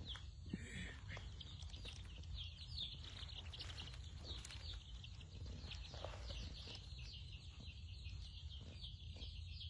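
A brooder full of young chicks peeping: many short, high, falling cheeps overlapping without a break, over a steady low hum.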